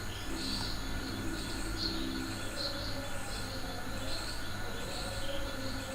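High chirping from a small animal in the background, repeating evenly about every two-thirds of a second over a low steady hum.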